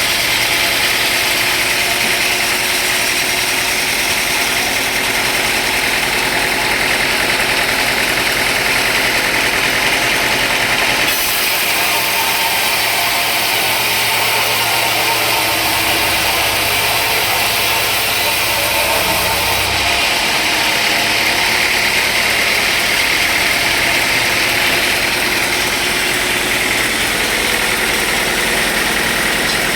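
Sawmill machinery running steadily: a loud, continuous mechanical drone with no pauses, its tone shifting for a while in the middle.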